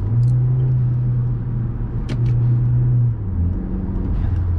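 Audi A4 B7 2.0T turbo four-cylinder heard from inside the cabin while driving: a steady low engine-and-road drone whose pitch drops slightly about three seconds in, with a light tick about two seconds in.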